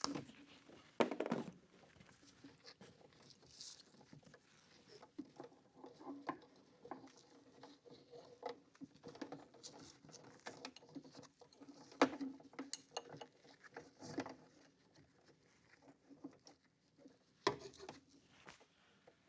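Irregular light clicks, taps and rustles of hands handling small hard objects, with a few sharper knocks about a second in, midway and near the end.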